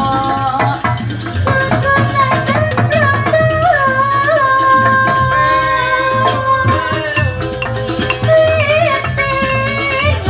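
Javanese gamelan music of the kind played for wayang: a voice or melodic line holding long, wavering notes over a hand-drum rhythm.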